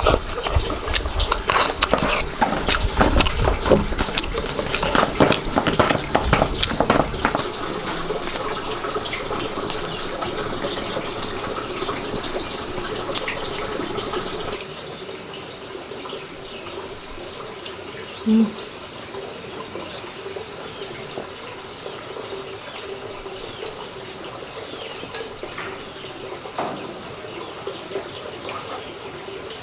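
Water running and splashing with knocks and clatter of handling for the first several seconds, then a steady background of insects chirring with a thin high tone.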